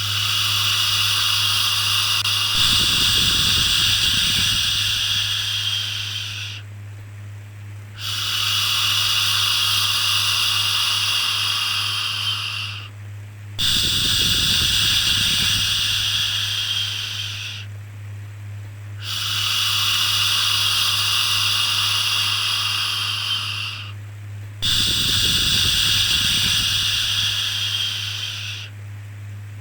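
Repeated long 'shhh' shushing for soothing a baby: five drawn-out hisses, each about five seconds long, with a pause of about a second between them. A steady low hum runs underneath, with a low rumbling swell about every eleven seconds.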